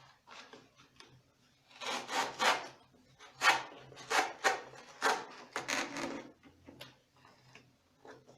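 Cardboard rubbing and scraping as boxes are handled and wrapped, in a run of rasping strokes each about half a second to a second long.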